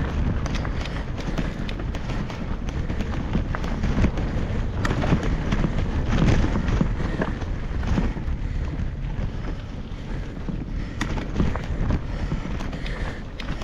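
Wind buffeting the microphone: a steady low rumble with scattered sharp clicks and crackles.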